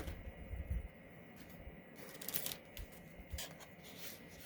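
Faint rustling and light clicks of paper and craft supplies being handled on a table, with a few soft thumps near the start.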